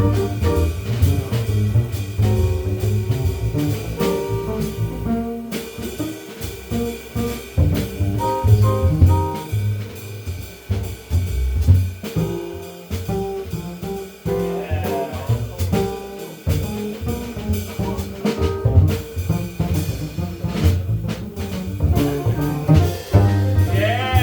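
Small jazz band playing an instrumental chorus: drum kit keeping time under a bass line, with a lead instrument carrying the melody.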